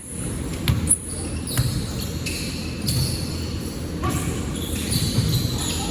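Basketball being dribbled on a hard court: repeated low bounces spaced about a second apart, with a couple of sharper knocks about a second in, over the hall's background noise.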